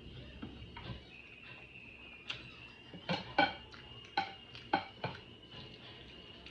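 A utensil clinking and scraping against a dish, with a handful of sharp, briefly ringing clinks clustered from about two to five seconds in.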